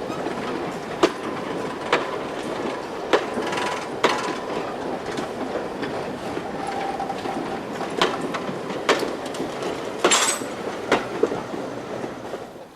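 A train running on jointed track, its wheels clicking over the rail joints about once a second, with a faint wheel squeal in the middle and a brief sharp screech near the end.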